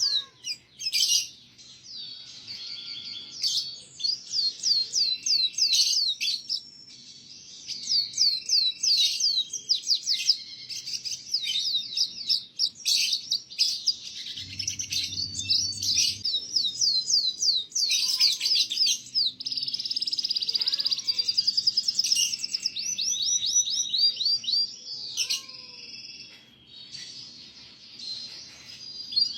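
Domestic canary singing a long, vigorous song of fast trills and rapidly repeated down-slurred whistled notes, with a brief lull about seven seconds in.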